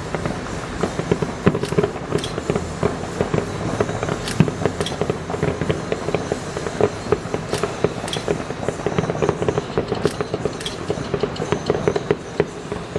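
Fireworks going off in quick succession: dense crackling throughout, with sharp bangs about once a second.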